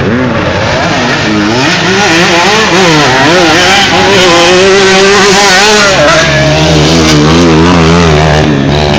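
Motocross bike engines revving hard, their pitch rising and falling repeatedly as the riders work the throttle and shift around the track. More than one engine is heard at once, and from about six seconds in a steadier lower engine note runs underneath.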